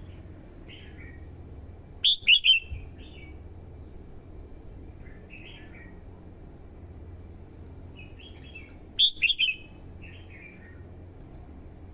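Red-whiskered bulbul singing: two short, loud, quick phrases about 2 seconds in and again near 9 seconds, with softer single notes between them, over a faint steady low hum.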